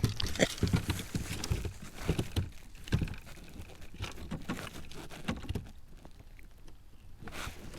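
Close handling noise: irregular rustling and light knocks, dense over the first few seconds, then sparser and quieter, with one short soft rustle near the end.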